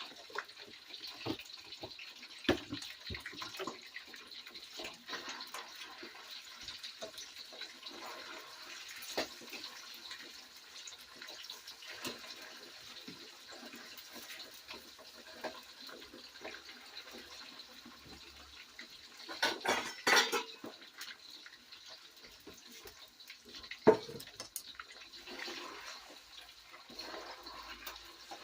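Sliced flank steak sizzling and crackling in a hot wok. Metal spatula clinks and scrapes against the pan throughout, with a louder clatter about two-thirds of the way in and a sharp knock shortly after.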